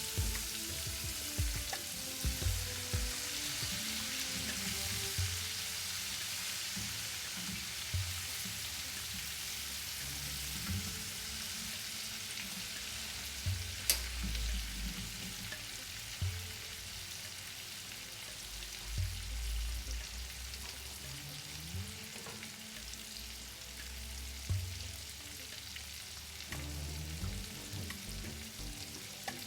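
Food frying in a pan with a steady sizzle and occasional low knocks from handling. One sharp click comes about 14 seconds in.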